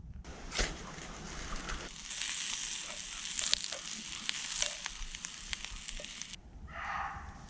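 Food sizzling and crackling in a hot pan over a campfire, a steady hiss dotted with small pops, which stops about six and a half seconds in. A brief pitched sound follows near the end.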